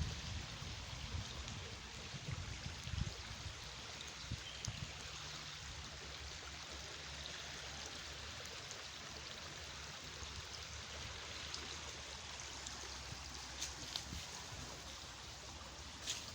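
River water flowing steadily, an even hiss, with some low rumbling that fades over the first few seconds.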